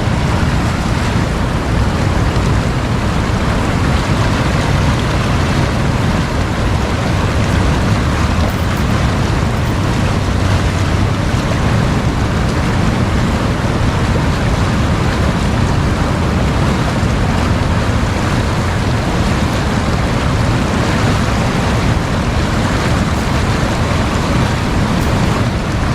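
Fast-flowing water rushing steadily, a loud unbroken noise with a deep rumble.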